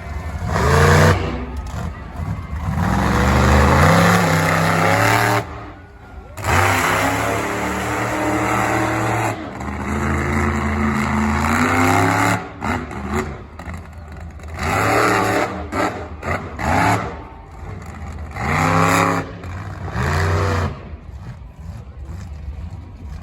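Monster truck engine revving hard in repeated bursts, the pitch climbing and dropping again and again as the throttle is blipped and held, with short lulls between the bursts.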